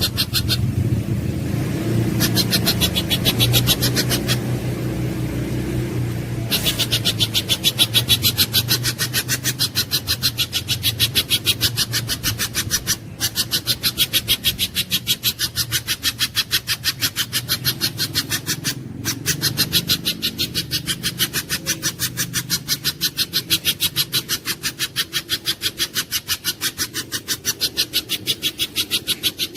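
Pijantung gunung (spiderhunter) giving a long, rapid run of short, sharp, high notes, about five a second, broken by brief pauses twice.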